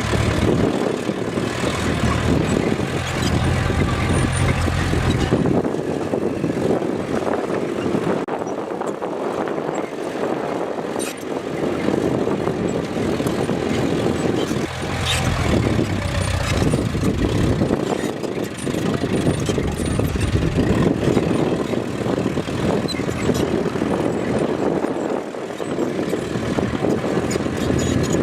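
Bulldozer's diesel engine running under working load, its low drone swelling and fading several times, with a few sharp knocks.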